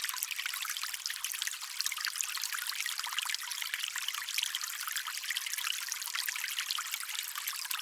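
Stream water trickling: a steady, even run of many small splashes and bubbles, bright and thin with no low rumble.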